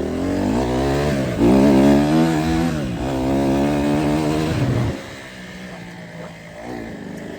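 Honda CRF150R dirt bike's four-stroke single-cylinder engine accelerating hard, its pitch climbing and dropping back at two gear changes. About five seconds in the throttle is shut and the engine falls to a much quieter run.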